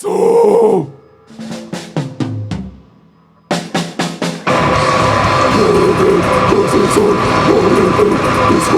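Live rock band with drum kit: a loud hit with a falling low note, a few stop-start accented hits, a short pause, then a quick drum fill about three and a half seconds in, after which the full band comes in and plays on steadily.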